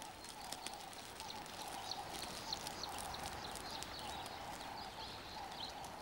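Faint outdoor bush ambience, with small birds chirping in short, repeated downward-sliding calls.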